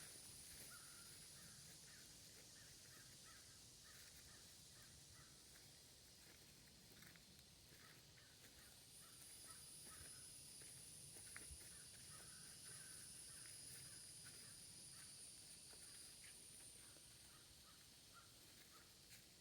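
Faint outdoor ambience of crickets holding a steady high-pitched trill, with distant birds giving short calls over and over.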